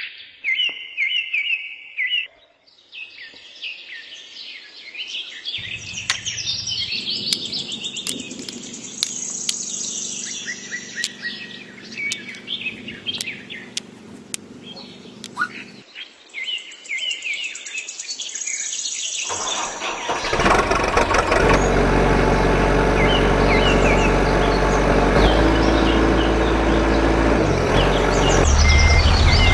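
Birds chirping and calling with short repeated notes. About two-thirds of the way through, a louder steady engine-like rumble starts and runs underneath.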